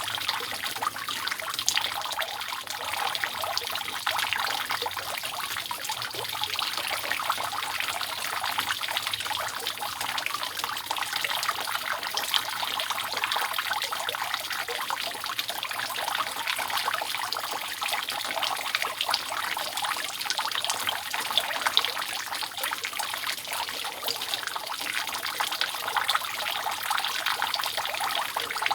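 Water dripping and trickling continuously off a roof, many drops falling together in a steady, dense stream with no pauses.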